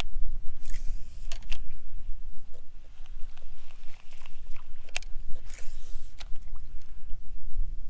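Strong wind buffeting the microphone in a steady low rumble, with two brief splashy hisses, one about a second in and one about five and a half seconds in, and a few sharp clicks or knocks from the kayak.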